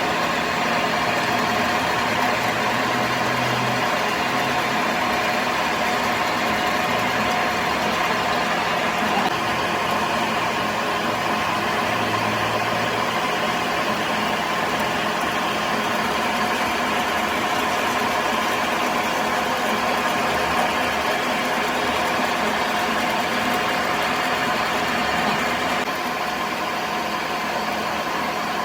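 A machine running steadily, with an even mechanical hum and hiss and a few faint low swells.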